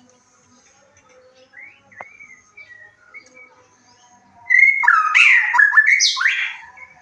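White-rumped shama singing: faint, scattered whistled notes at first, then about four and a half seconds in a loud two-second burst of quick rising and falling whistles ending in a harsh, rasping phrase.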